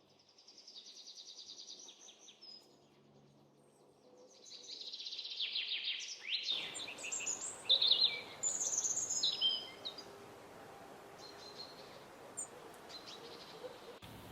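Wild songbirds chirping and singing: quick high trills, then a busier run of loud chirps and short phrases in the middle, thinning to a few faint calls over a steady hiss near the end.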